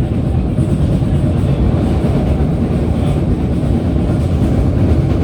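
PATH commuter train running along the track, a steady rumble of wheels on rails heard from inside the car.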